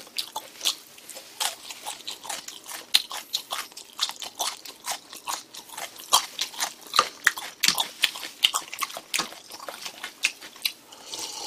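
A person chewing grilled pork belly close to the microphone: a quick, irregular run of mouth clicks and smacks, several a second.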